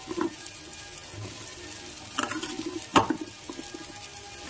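Bottle gourd chunks dropped into a metal pot of frying spice paste: a low sizzle with a few sharp knocks as the pieces land, the loudest about three seconds in.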